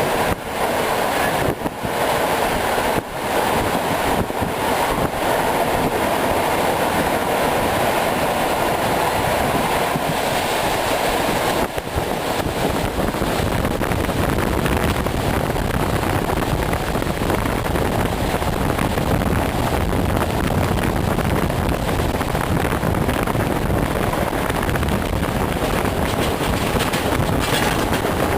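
ER2R electric train running along the line, a steady rumble of the moving carriage with wind on the microphone. About twelve seconds in, the noise shifts lower and deeper.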